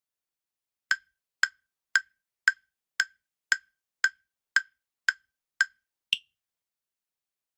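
Countdown timer sound effect: ten short, evenly spaced wooden-sounding ticks, about two a second, starting about a second in, then one higher-pitched click that marks time up.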